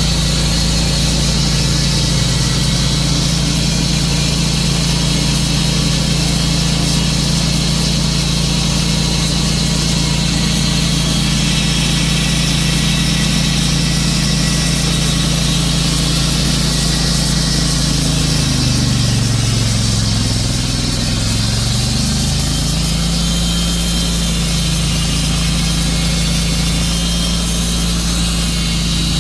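Tru-Cut sawmill's engine running steadily, its pitch sagging for a couple of seconds about two-thirds of the way in and then recovering.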